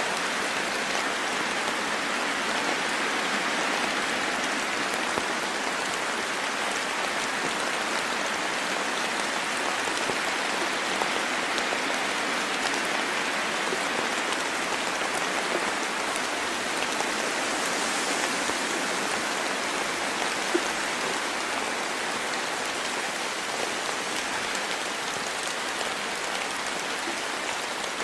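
Steady rain falling, an even hiss with scattered drop taps and one slightly louder tap about twenty seconds in.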